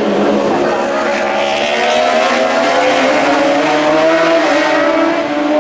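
Superbike racing motorcycles running at high revs, several engine notes overlapping and wavering slightly in pitch.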